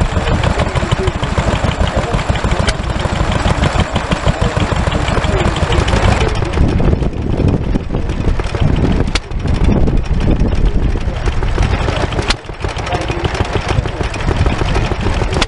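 Vintage stationary engines running steadily at a show, with fast, even firing pulses; the sound turns duller about six seconds in.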